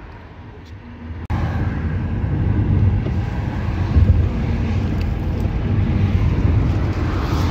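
Car driving on the road: a steady low rumble of engine and road noise. It is quieter for the first second and comes in fully after a sharp click.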